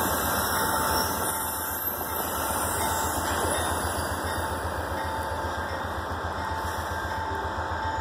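Diesel-hauled passenger train rolling past and away: a steady rumble with a fast, even low throb, loudest in the first second or so and easing slightly as the cars go by.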